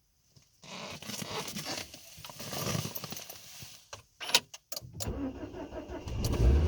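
Rustling and key clicks, then the starter cranks the Renault Kaptur's 1.6 H4M four-cylinder petrol engine for about a second before it catches near the end. This is a cold start at about −25 °C.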